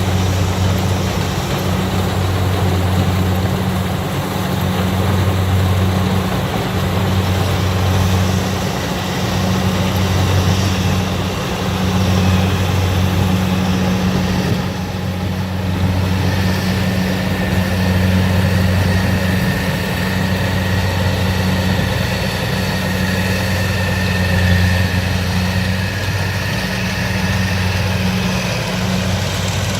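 Kubota DC60 combine harvester running steadily with a deep, even diesel engine hum. About halfway through the sound dips briefly, then a steady high whine joins in.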